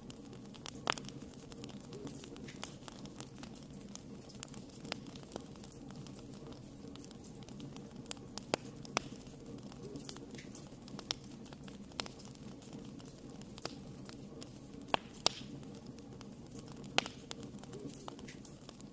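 Fire burning in a fireplace: a steady low rush of flames with frequent small irregular crackles and a few louder sharp pops.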